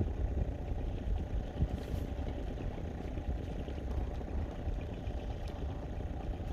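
An engine running steadily at idle: a continuous low rumble with a faint steady hum.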